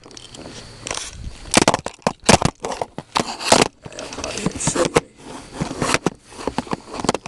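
Irregular knocks, clicks, scrapes and rustling of fishing gear and equipment being handled and moved around.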